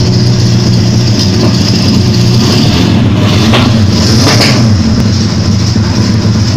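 Custom four-cylinder engine running at a steady idle while being tuned, with a short rougher surge about halfway through.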